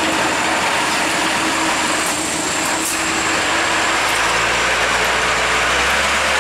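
Heavy truck engine running under a loud, steady hiss of road and traffic noise, the low engine rumble growing stronger about two thirds of the way through.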